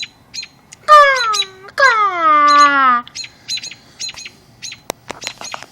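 Birds chirping in short, high, repeated notes. Two loud, long calls slide downward in pitch about a second in and again right after, and a few sharp clicks come near the end.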